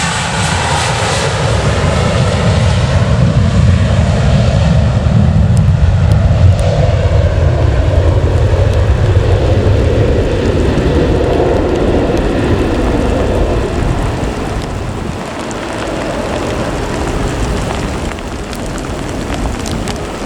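Jet airliner's engines, a loud low rumble that swells through the first half and then fades away over the last few seconds.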